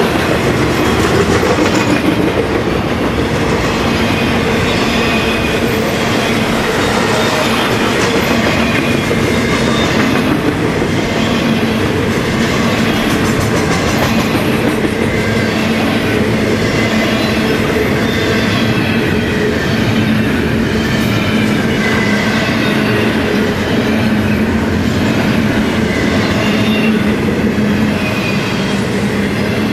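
Freight train rolling past close by: a steady rumble of steel wheels on the rails with repeated clicking as the cars go over the track.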